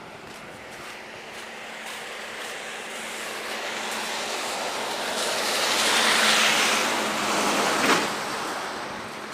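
A car passing on a snowy road, its tyre noise swelling slowly to a peak about six seconds in and then fading, with a brief knock near the end.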